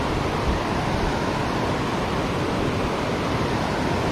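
Steady rushing of a river waterfall running high after a day of heavy rain, an even wash of falling water with no breaks.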